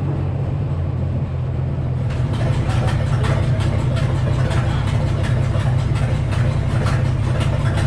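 Sawmill engine running steadily under the 48-inch circular saw; about two seconds in, a louder, rapid rasping starts as the blade cuts into the poplar log.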